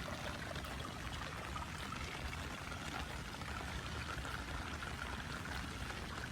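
Steady rush of falling rain and running water.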